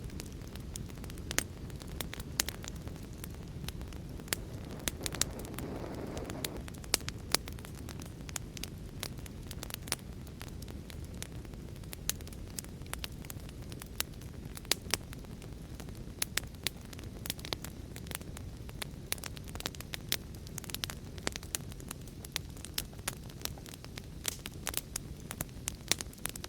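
Wood fire crackling: frequent sharp, irregular pops and snaps over a steady low rumble of burning, with a soft swell of flame noise about six seconds in.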